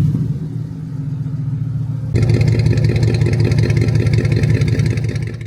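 Dodge Challenger's V8 engine running with a deep, throbbing exhaust note; about two seconds in it becomes louder and raspier, then it fades out near the end.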